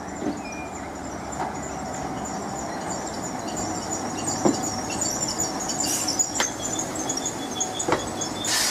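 A train moving slowly through a station: steady rumble with wavering high-pitched wheel squeal and a few sharp knocks. A loud burst of hiss starts near the end.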